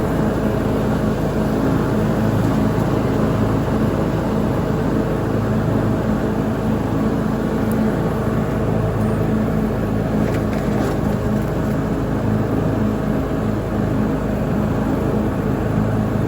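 Petrol lawn mower engine running steadily at a constant speed while mowing.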